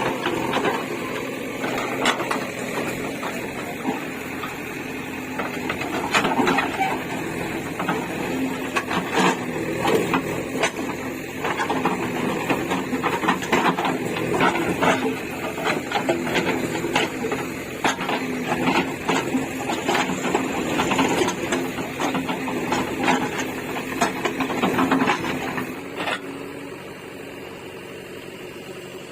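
JCB 3DX backhoe loader's diesel engine running steadily under load, with frequent knocks and clatter of bricks and debris being moved. The sound drops quieter near the end.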